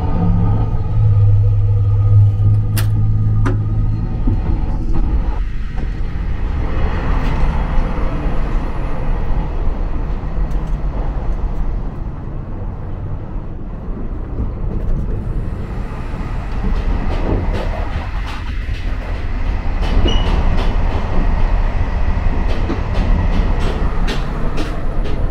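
Running noise of a JR Hokkaido 261 series diesel express train heard inside the carriage: a steady low rumble. In the first few seconds a loud low hum sits over the rumble, with two clicks.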